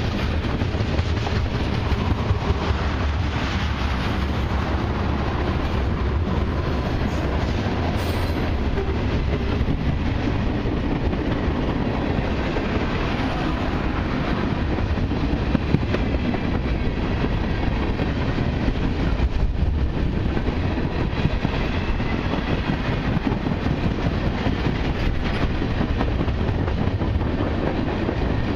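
Freight train tank cars rolling past close by: a steady rumble and rattle of steel wheels on rail, with occasional louder clacks.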